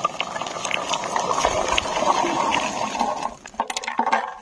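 Rustling and pattering of wild lingonberries being stripped by hand from the bushes and dropping into a bucket, a steady rustle with small ticks that breaks up into a few separate clicks near the end.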